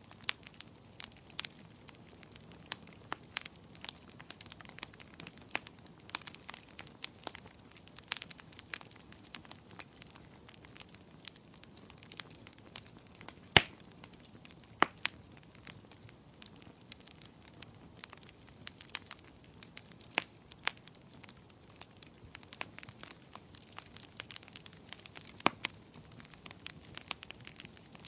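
Wood fire crackling in a fireplace: irregular sharp pops and snaps over a soft steady hiss, with a louder pop about halfway through.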